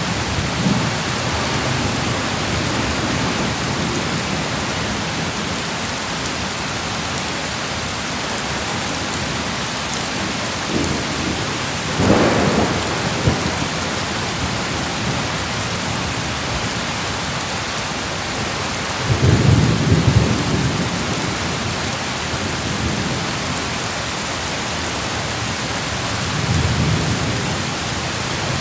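Steady heavy rain with rolling thunder. Low rumbles swell about twelve seconds in and again near the end, and the loudest comes about two-thirds of the way through.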